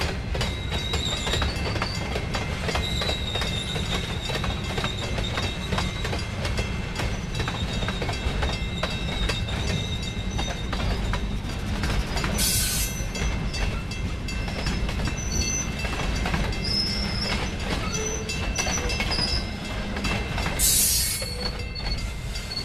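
A freight train of tank cars and boxcars rolling past at close range. Its wheels clack over the rail joints under a steady rumble, with thin high wheel squeals coming and going. Two short bursts of hiss come about halfway through and near the end.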